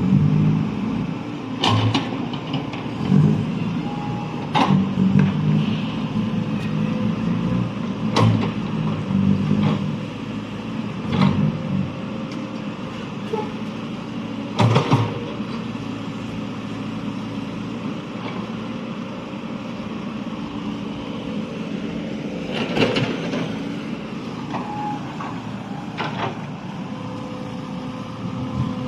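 A large vehicle engine running steadily, with sharp metal knocks and clanks every few seconds.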